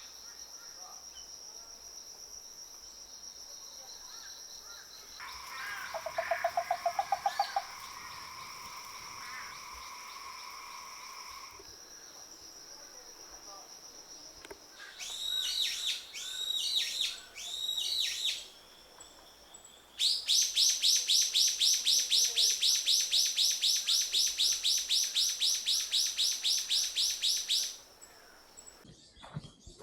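Birds and insects in subtropical island countryside. A steady high insect drone runs under a short low trill about six seconds in and three sweeping bird calls a little past the middle. Then a loud rhythmic insect chirring, about five pulses a second, starts around two-thirds of the way through and stops near the end.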